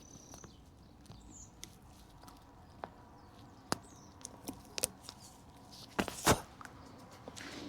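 Scattered small clicks and taps of hands handling parts and a tube of exhaust assembly paste at an exhaust joint, with two louder knocks about six seconds in.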